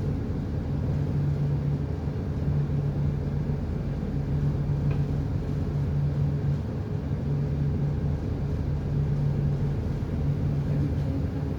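Large engine running steadily: a low hum and rumble that swells and eases about every two seconds.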